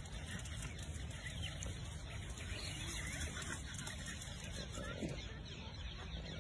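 A few faint, short bird calls over a steady low rumble outdoors.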